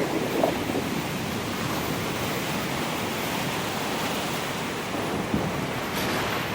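Sea surf: a steady rushing wash of waves.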